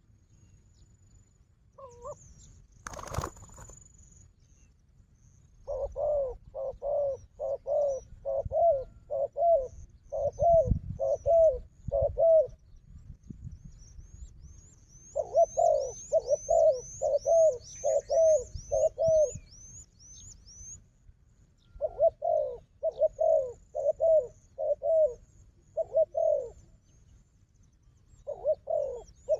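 Dove cooing in bouts of short, repeated coos, a little under two a second, with pauses between bouts. High, thin descending chirps from a small bird come in a run midway, and there is one sharp knock about three seconds in.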